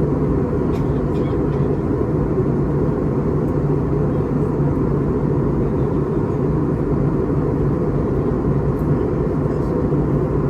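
Steady cabin noise inside an Airbus A321neo airliner: a constant low rumble of engines and airflow that does not change.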